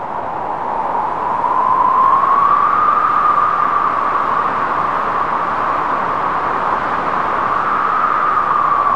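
Howling mountain wind: a steady rushing hiss whose pitch slowly rises and falls. It swells over the first couple of seconds.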